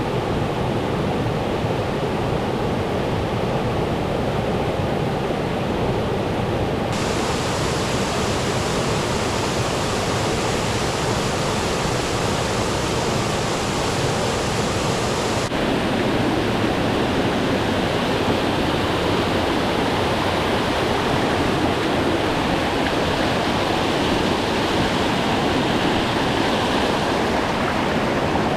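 Steady rushing of water, an even hiss with no individual drops or splashes standing out. It turns brighter and hissier about seven seconds in and duller again about halfway through.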